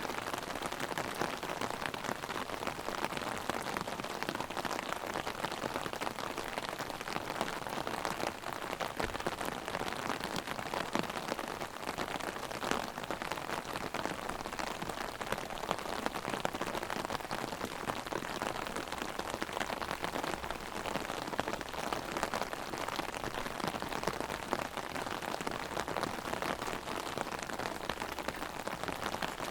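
Heavy rain drumming on an umbrella overhead, a dense, steady patter of many small drops.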